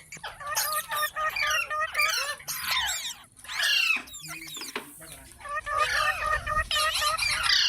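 Parrots calling, a rapid run of overlapping chirps, whistles and squawks that glide up and down in pitch, with a short pause about three seconds in.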